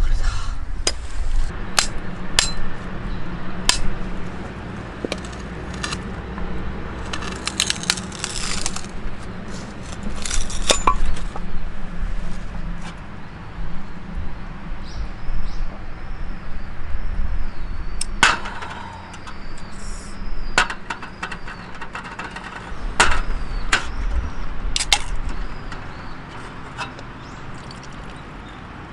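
Irregular sharp knocks and clinks, with a small bird chirping repeatedly between about halfway and two-thirds of the way through.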